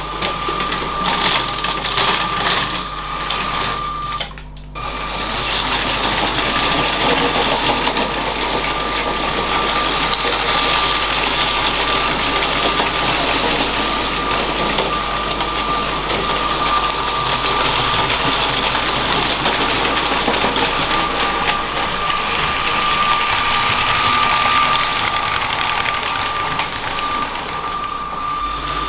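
Motorised LEGO train running on plastic track: a steady electric-motor whine over the rattle and clicking of wheels. The sound drops out briefly about four and a half seconds in.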